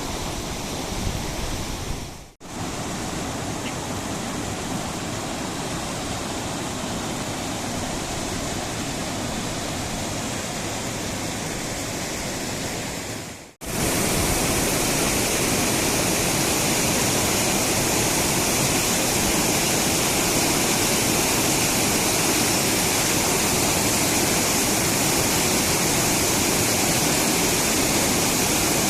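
Steady rush of flowing water, as from a stream or waterfall. It cuts out abruptly twice, and after the second cut, about 13 seconds in, it is louder and brighter.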